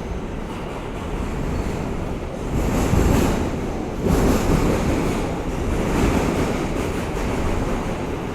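R160A subway car running at speed between stations, heard from inside: a steady rumble and rush of wheels on rail that swells louder about two and a half seconds in and again from about four to six and a half seconds.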